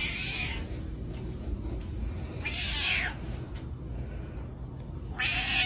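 A cat meowing three times, a couple of seconds apart, each call falling in pitch, over a steady low rumble.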